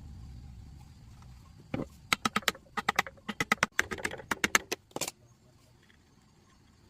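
A quick, uneven run of sharp clicks and taps, starting about two seconds in and stopping about five seconds in, after a low hum fades out.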